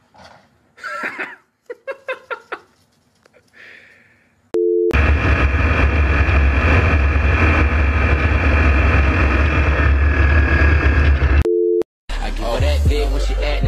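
A quick run of short cries, then a brief steady beep. After it comes loud, steady wind rumble and engine noise inside an open ultralight aircraft in flight, lasting about six seconds. A second beep cuts it off near the end, and music begins.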